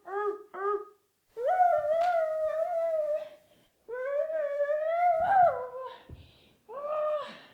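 Howl-like voice in a small room: two long, wavering held notes of about two seconds each, then a shorter one near the end.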